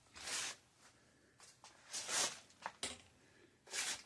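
Bicycle tire brushing against the frame in a few short scraping rubs as the wheel is turned, about three of them. The wheel sits off-centre, with no clearance on one side.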